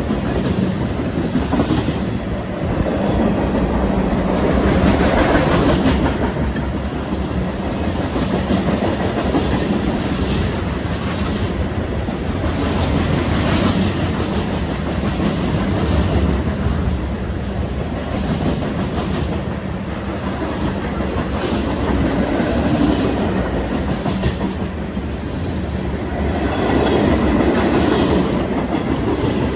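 Freight train's cars rolling past close by, a continuous rumble with wheels clicking over the rail joints, swelling and easing every several seconds.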